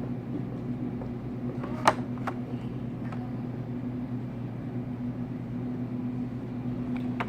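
Steady low hum with two sharp plastic clicks about two seconds in and more near the end: blister-packed die-cast toy trucks being handled.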